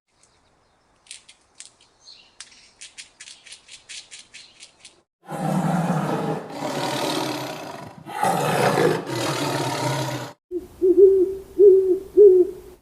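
A run of animal sounds: a quick series of faint clicks, then two long, loud, rough roars from a large animal, then four short pitched calls that rise and fall.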